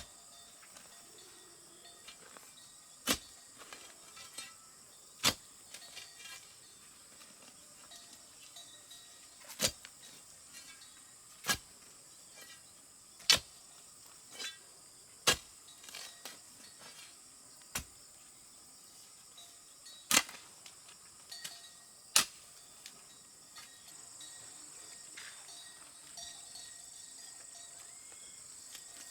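Sharp single strikes of a tool on wood, about one every two seconds, over steady high-pitched insect buzzing.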